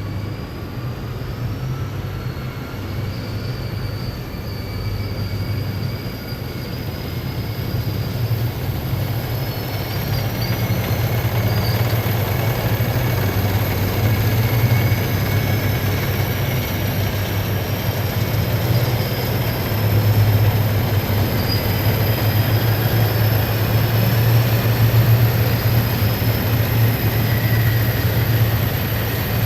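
Column of heavy military vehicles driving past: a steady deep engine rumble with thin high squeals that slowly rise and fall, growing louder through the second half.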